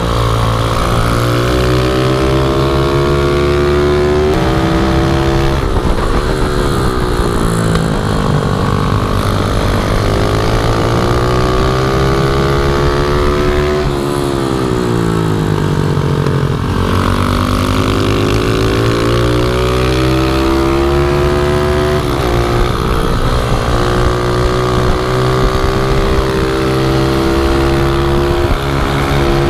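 Small pit bike engine running hard at race pace, its pitch repeatedly climbing as it revs up and then dropping back, over and over through the gears and corners.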